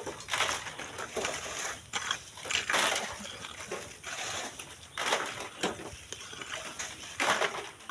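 Shovels scraping into sand and gravel and tossing it, in irregular gritty strokes a second or two apart.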